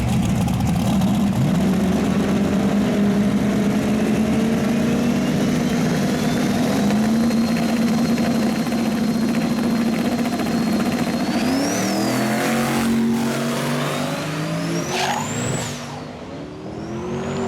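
Drag-racing car engine running hard at high revs, a loud steady note for about twelve seconds. Near the end the pitch shifts and several high rising whines come through, then the sound falls away.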